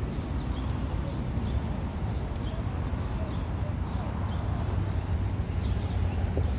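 Small birds giving faint, short, scattered chirps over a steady low outdoor rumble.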